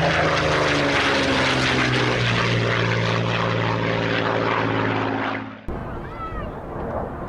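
Propeller-driven aircraft engines running with a loud, steady drone, the note shifting about two seconds in. Near the end it cuts off suddenly to a quieter stretch with a few faint chirps.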